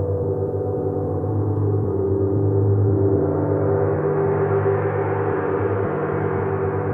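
A gong ringing in a sustained wash of many overlapping tones. It grows brighter and a little louder a few seconds in.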